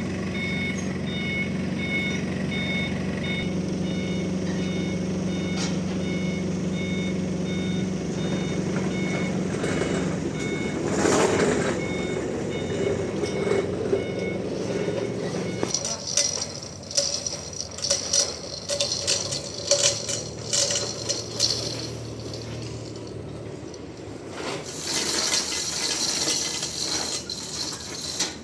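A heavy vehicle's engine running with a reversing alarm beeping steadily. The beeping stops about a third of the way in and the engine fades out soon after. Then comes a run of irregular knocks, clanks and rattles, loudest a few seconds before the end.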